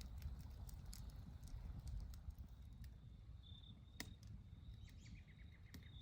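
Faint campfire crackle: scattered sharp pops and ticks over a low rumble. A short, quick run of high bird chirps about five seconds in.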